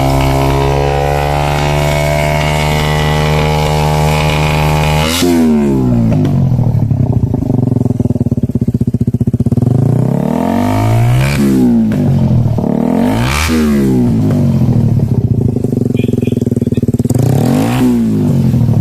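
Suzuki Satria FU 150cc single-cylinder four-stroke engine running through its stock exhaust muffler. It holds a steady note for about five seconds, then settles and is revved in short throttle blips several times.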